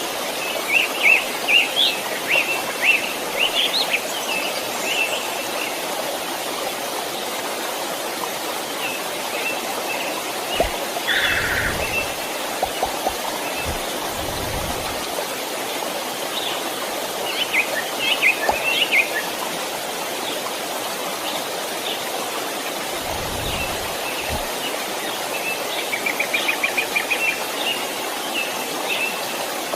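Stream flowing with a steady rush of water, and small songbirds chirping over it in short bouts, one of them a fast trill near the end. A few brief low rumbles come in the middle.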